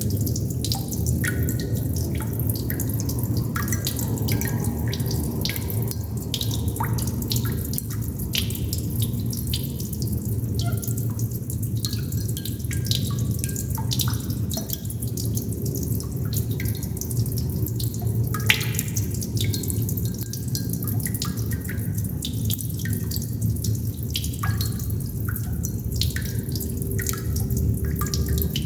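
Water droplets dripping irregularly, several a second, each a short, slightly pitched plink, over a steady low rumble.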